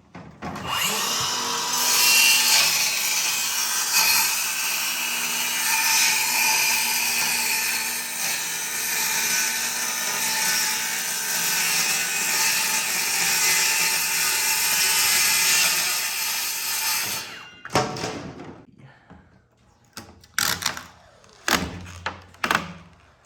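Power tool running steadily for about seventeen seconds, then stopping; a few short knocks and clatters follow.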